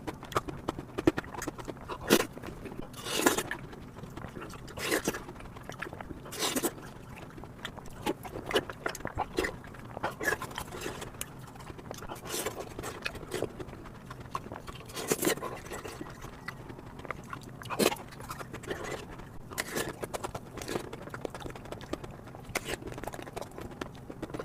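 Someone eating chocolate ice cream close to the microphone: irregular short bites, chewing and mouth smacks.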